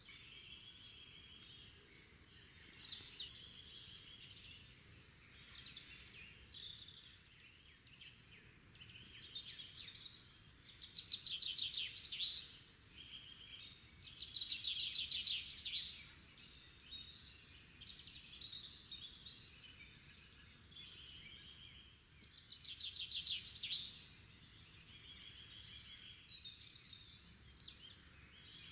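Several songbirds singing and chirping over a faint, even background noise. A louder song of fast repeated trilled notes comes in three times: about a third of the way in, around the middle, and again near the end.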